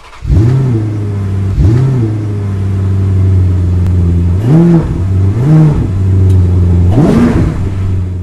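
A car engine idling with about five quick revs, each rising and then falling back in pitch.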